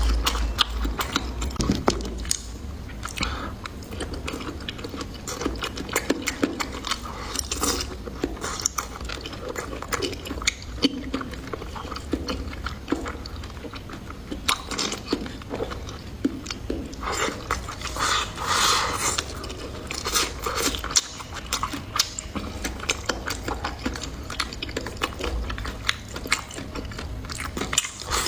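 Close-miked chewing and biting of food: a steady run of crisp crunches and mouth clicks, denser and louder a little past the middle.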